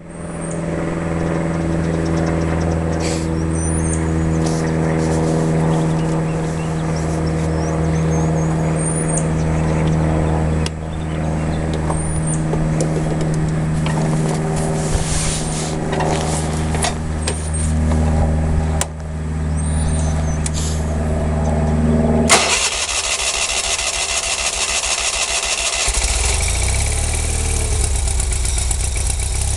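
20 hp Onan twin-cylinder engine of a 1995 Wheel Horse 520-H garden tractor running steadily after repairs, with birds chirping faintly. About twenty-two seconds in the sound changes suddenly to a rapid low pulsing, which settles a few seconds later into a steady idle.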